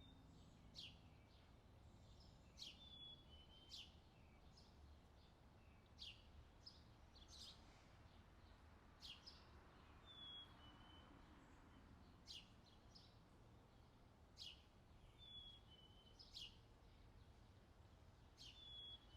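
Faint birdsong: short sharp chirps about once a second, and a brief two-note falling whistle four times, over a faint low background rumble.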